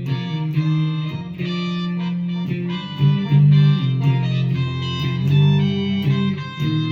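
Instrumental music: guitar playing plucked notes over a sustained low bass line, with no singing.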